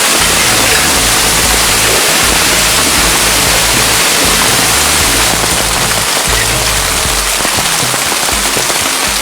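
Heavy rain falling steadily, a dense even hiss, easing off slightly about five seconds in.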